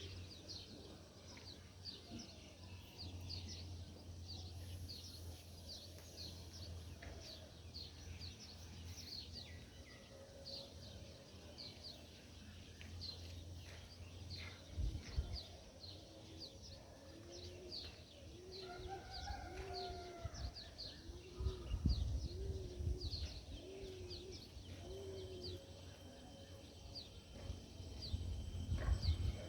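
Birds calling: quick, high chirps repeating about twice a second throughout, and from about halfway a run of seven even, lower calls roughly a second apart, over a faint low rumble.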